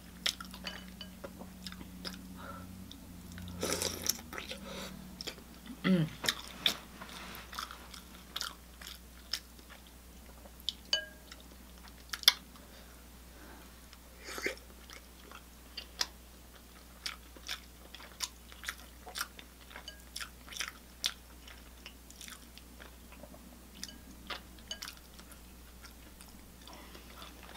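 A person chewing food with wet mouth smacks and clicks, irregular, often one or two a second.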